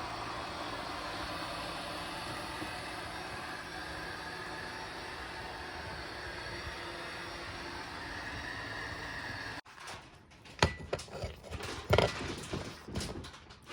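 Robot vacuum cleaner running with a steady motor hum and brush whirr, cutting off suddenly about nine and a half seconds in. After it, a few scattered knocks and clicks.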